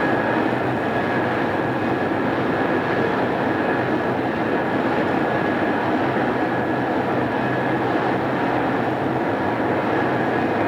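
Odakyu 2600 series electric multiple unit running at steady speed, heard from inside the car on an old cassette recording: an even rumble of wheels on rail with a faint steady whine.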